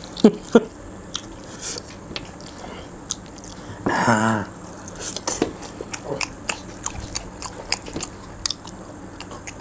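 Close-miked eating by hand: people biting and chewing pieces of chicken with rice, with many short wet mouth clicks and smacks scattered throughout. About four seconds in comes a brief hummed vocal sound from one of the eaters.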